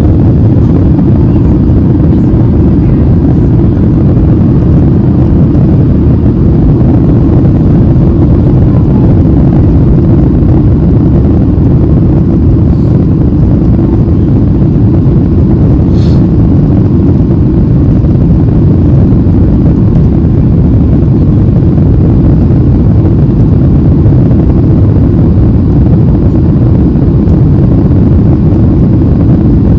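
Steady airliner cabin noise in flight: a constant loud low rumble of the engines and rushing air, with one faint click about halfway through.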